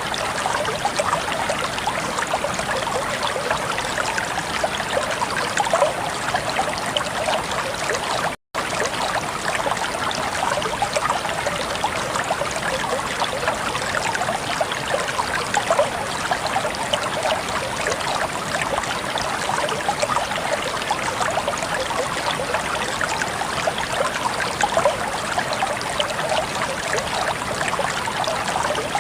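Shallow stream of water flowing and trickling steadily, a dense babbling of many small splashes. The sound drops out completely for an instant about eight seconds in.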